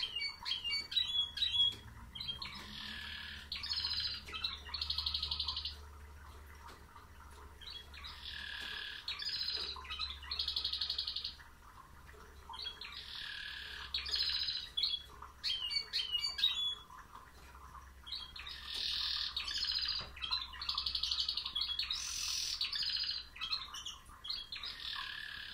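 Male canary singing in four bouts of song, each a run of quick chirps and fast rolling trills, with short pauses between bouts. A faint steady low hum runs underneath.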